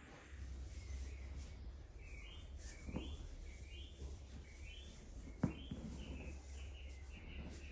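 A bird singing a short rising-and-falling chirp over and over, about once every two-thirds of a second, over a low steady rumble, with two sharp knocks about three and five and a half seconds in.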